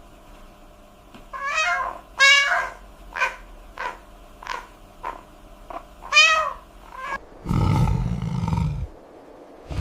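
A young animal's high, wavering cries and short squeaks, then a low rough growl about three-quarters of the way through.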